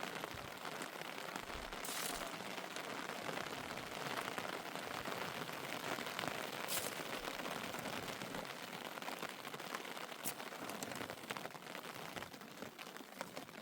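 Steady rain falling, a dense hiss of patter with a few louder single taps of drops.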